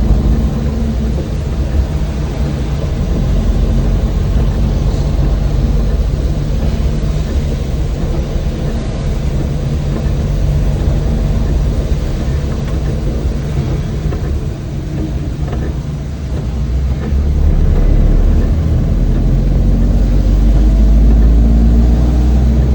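Old van driving: steady low engine drone with road noise, dipping briefly and then getting louder over the last few seconds as it picks up speed.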